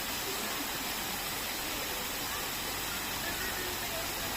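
Steady rush of running water from a park water feature, an even hiss with no breaks, with faint voices under it.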